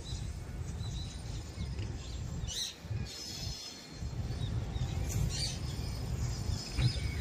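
Low, uneven rumble of a slow military freight train of loaded flat wagons rolling past, with a couple of short bird chirps over it.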